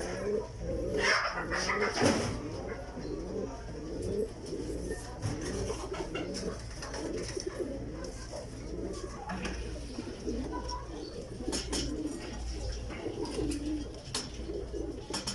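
Many pigeons cooing at once, a dense chorus of overlapping low warbling calls, with a few brief sharp clatters in between and a steady low hum underneath.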